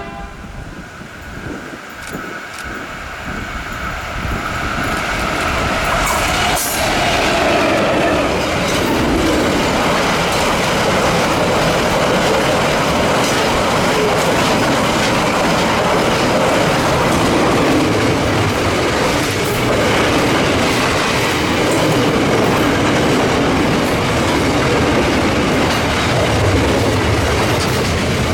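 Diesel-hauled freight train approaching and passing close by, getting louder over the first several seconds, then a steady loud rumble and clatter as the wagons roll past.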